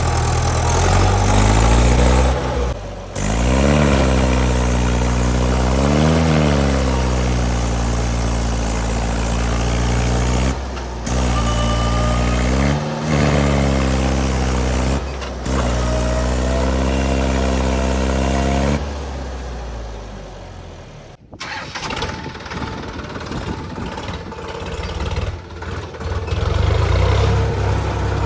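Diesel tractor engines running hard and revving, their pitch rising and falling as they strain to pull a stuck trolley out of mud. The sound breaks off abruptly several times. In the last third a lower, rougher engine sound takes over.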